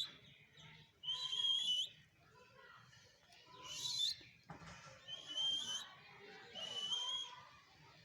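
A parrot calling four times, about one call every second and a half, each a short whistle-like note with a harsh, raspy edge.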